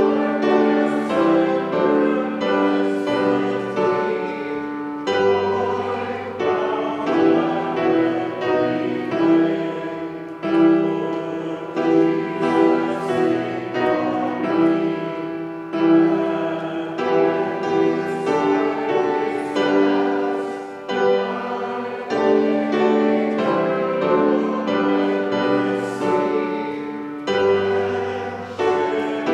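Congregation and choir singing a hymn with keyboard accompaniment, in slow sustained chords that change about once a second with an occasional deep bass note.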